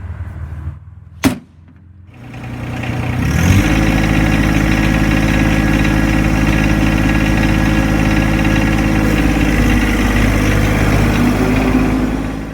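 Tractor hood closing with a single sharp bang, then the John Deere 2025R's three-cylinder diesel engine starts, building up over about a second and a half, and settles into a steady idle after its oil change.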